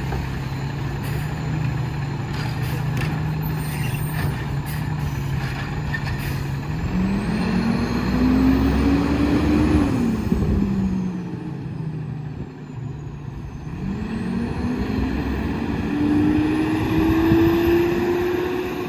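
Diesel engine of an Autocar WXLL garbage truck idling, then pulling away: the engine note climbs, drops back at a gear change about ten seconds in, and climbs again.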